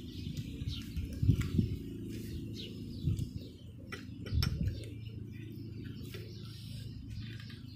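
Small birds chirping in short falling calls over a steady low hum, with a few low thuds about a second in and again near the middle, and a couple of sharp clicks like cutlery on a plate or bowl.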